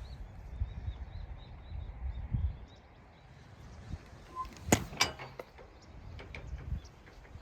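Low rumbling noise for the first couple of seconds, then two sharp clacks in quick succession about halfway through, followed by a few fainter clicks.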